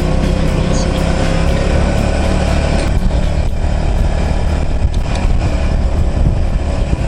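Motorcycle engine running steadily while riding, its pitch rising slightly.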